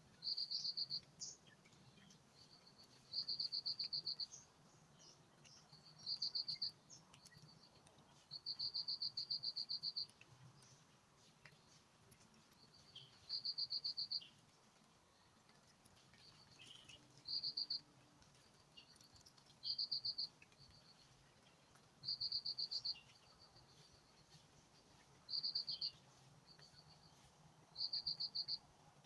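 An insect, cricket-like, trilling high in short pulsed bursts of about half a second to a second and a half, repeating every two to three seconds, with faint scattered chirps in between.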